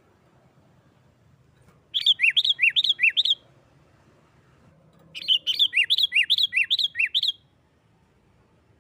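Sooty-headed bulbul giving its agitated, fighting-style 'nggaruda' call: two bouts of sharp notes repeated quickly, about seven a second, alternating between a higher and a lower pitch. The first bout comes about two seconds in, and a longer second bout starts about halfway through.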